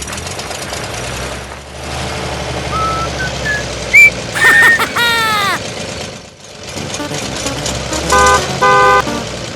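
Mini tractor engine running with a low, steady drone. In the middle a whistle rises in short steps, then a louder cartoon-style swoop falls. Two short horn toots come near the end.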